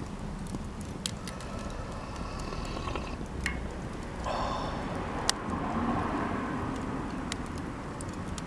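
Cedar offcut campfire crackling, with scattered sharp pops over a steady low background rumble, and a loud knock right at the end.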